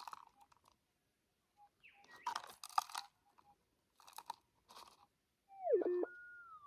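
Soil and gravel crunching in short bursts as dirt is dug and moved with a scoop. Near the end the Minelab GPX 6000 metal detector gives a loud target signal, a tone that dips sharply, rises and holds: the detector responding to a buried metal target, here a gold nugget.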